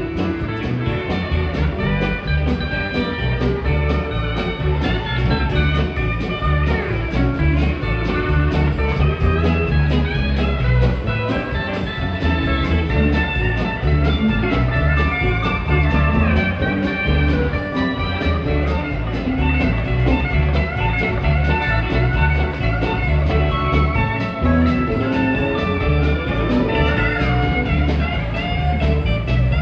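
Live band music with guitar to the fore over a pulsing bass line.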